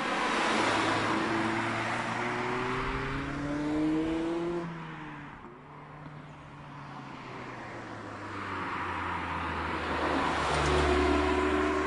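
Mazda MX-5 roadster's four-cylinder engine pulling hard past, its pitch climbing for a few seconds, then dropping off as the car goes away. A few seconds later it comes past again, getting louder with the engine note rising.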